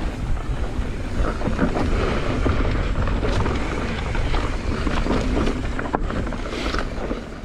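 Mountain bike ridden fast down a dirt singletrack: wind rushes over the microphone, and the bike clatters and rattles over bumps as it rolls.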